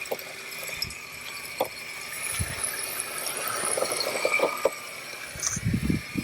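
MJX Hyper Go 14302 rally RC car's electric motor whining steadily as the car drifts, swelling in the middle as it accelerates, with scattered clicks and a few low thumps near the end.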